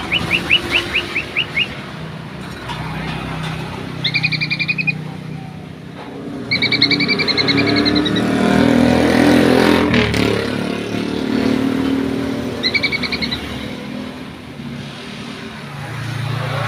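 A bird chirping: a quick run of about eight rising notes, then three short trilled phrases, while a vehicle engine rumbles past in the background.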